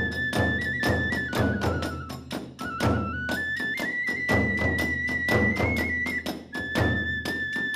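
Kagura hayashi music: a bamboo flute holds a high, stepping melody over drums and small hand cymbals struck in a fast, steady beat, about four strikes a second.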